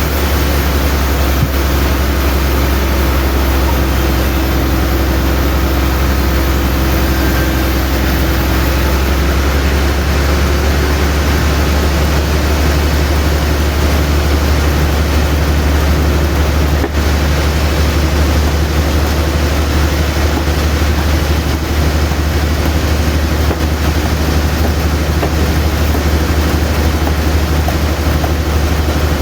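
Sawmill machinery running steadily, a strong low drone under a constant noisy wash.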